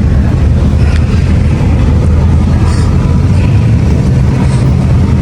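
Car engine running close by with a loud, steady low exhaust rumble.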